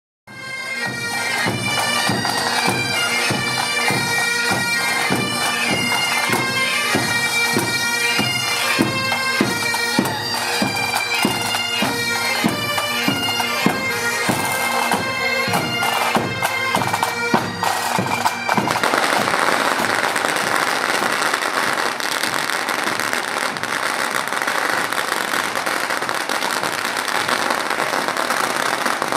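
A pipe band playing bagpipes over a steady drum beat. About two-thirds of the way through it gives way abruptly to loud street din with a fast crackle like firecrackers.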